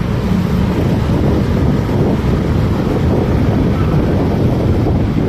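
Steady wind noise on the microphone of a moving motorcycle, with the bike's engine and road noise underneath.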